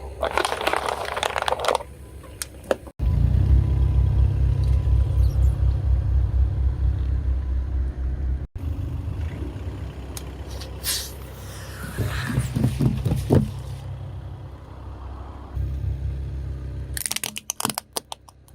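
Car tyre slowly rolling over objects and crushing them: a dense crackling crunch at the start, the car's low engine rumble for several seconds, more crackling about twelve seconds in, and a quick run of sharp snaps near the end.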